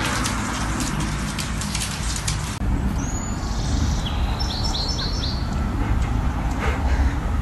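Dense crackling clicks, then after a cut a quick run of short high bird chirps, in two little rows of four, over a steady low rumble.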